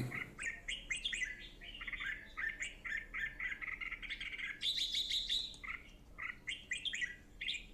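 Red-whiskered bulbul calling: a lively string of short, quick chirpy notes, with a brief higher-pitched trill about five seconds in.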